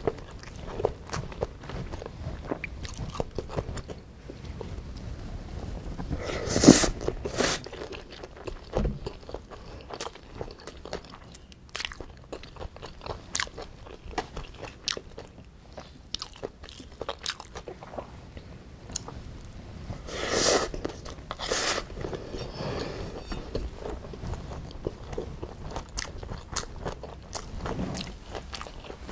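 Close-miked chewing of a mouthful of bibimbap: crunching of raw and lightly cooked vegetables such as bean sprouts and carrot, with many small crisp crunches and wet mouth clicks. There are two louder spells, about a quarter and two-thirds of the way in.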